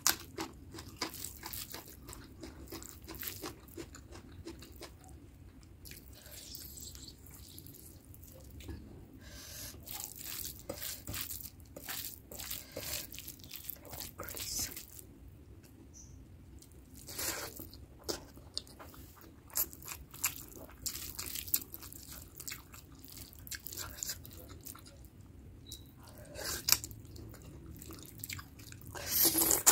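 Close-miked chewing of mutton curry and basmati rice: wet mouth clicks and crunches, with fingers mixing rice on the plate between mouthfuls. A few louder crunches come near the end.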